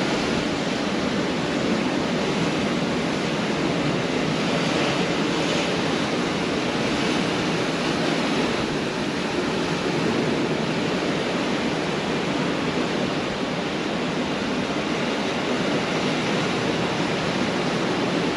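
Pacific Ocean surf washing onto the beach: a steady, unbroken roar of breaking waves.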